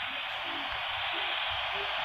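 Steady hiss of background noise with faint indistinct murmurs underneath.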